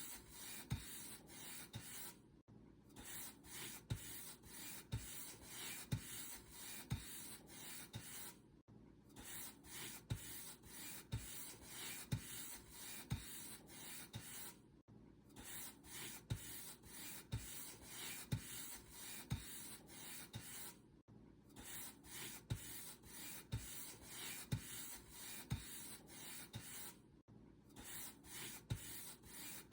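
Paint brush bristles stroking back and forth over a surface in a steady scratchy rhythm, about two strokes a second, with a brief gap roughly every six seconds.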